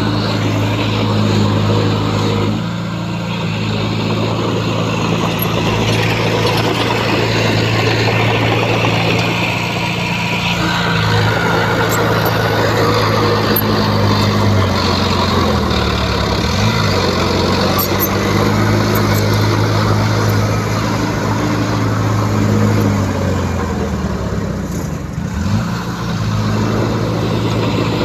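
Heavy diesel engine of earthmoving machinery running continuously, its pitch stepping up and down several times, with a brief dip and rise in engine speed about two thirds of the way in and again near the end.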